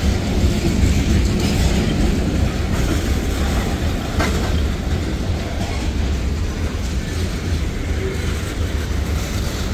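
Freight train tank cars rolling past on the rails: a steady low rumble of steel wheels, with scattered clicks as the wheels cross rail joints.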